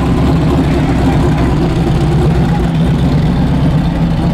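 Car engine idling steadily and loudly, a deep even rumble with no rise in revs.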